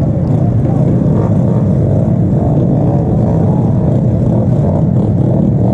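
Motorcycle engine running steadily under a heavy, even wind rumble on the microphone.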